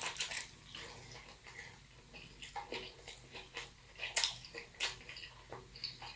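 Close-miked wet chewing and mouth smacks of someone eating a large burrito: irregular short sticky clicks, the loudest about four seconds in and again just under five seconds.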